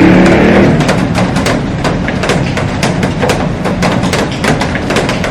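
Heavy rain on a glass roof: dense, irregular sharp taps of drops over a steady rushing hiss. A low hum underneath fades away in the first second.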